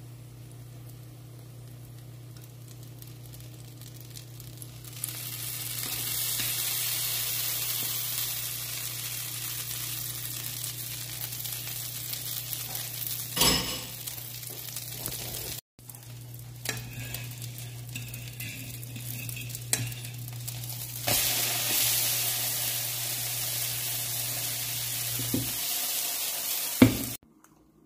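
Egg and sardine omelette sizzling in a non-stick frying pan, the sizzle growing louder about five seconds in, over a steady low hum. A few sharp knocks come through the sizzle, and it cuts off suddenly near the end.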